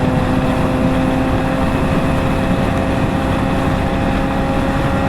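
Motorcycle engine running at steady cruising revs, holding one even pitch, with heavy wind rush over the rider's helmet microphone.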